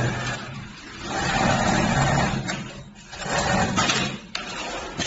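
Industrial computer pattern sewing machine running in two short bursts over a low steady hum, each burst ending in a sharp click.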